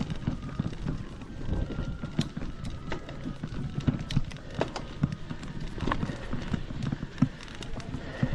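Footsteps on a hiking trail: irregular steps and scuffs with sharp little knocks, as of shoes on rocky, leaf-strewn ground.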